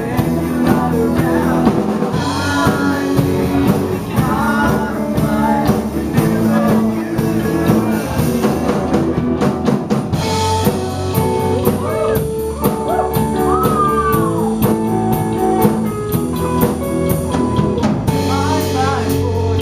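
Live band playing a pop-rock song: singing over drum kit and guitar.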